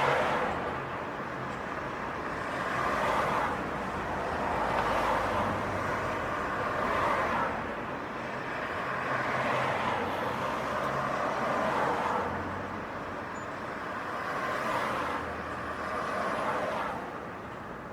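City street traffic: cars passing one after another, each a rise and fall of tyre and engine noise, about one every two to three seconds.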